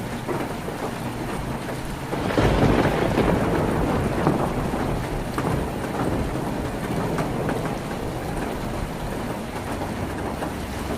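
Heavy rain drumming steadily on a tin roof, with a louder swell and low rumble about two seconds in that eases off over the next couple of seconds.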